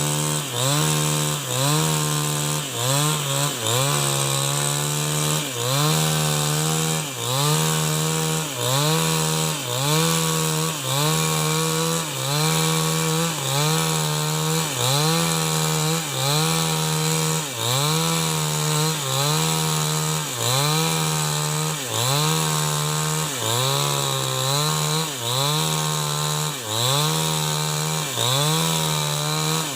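New West 788 two-stroke chainsaw cutting along an avocado-wood log to mill it into beams. The engine runs at high revs and dips and recovers again and again, about once a second, as the chain loads in the cut.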